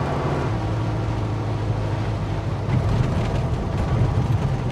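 Air-cooled flat-four engine of a Mexican-built Volkswagen Beetle running steadily while the car drives, heard from inside the cabin; its note steps lower about half a second in.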